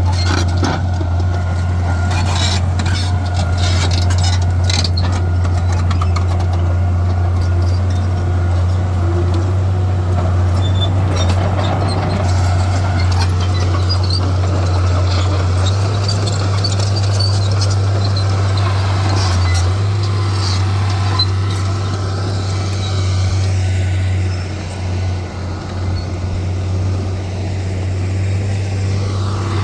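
Heavy diesel earthmoving machinery running with a steady low engine drone, with a run of knocks and clanks in the first several seconds and the drone easing briefly near the end.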